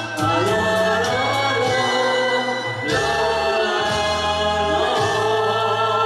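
A group of amateur singers singing together in unison, holding long sustained notes with a few sliding swells in pitch.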